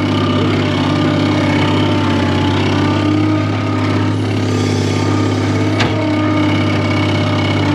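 Skid steer engine running steadily, with a single sharp click about six seconds in.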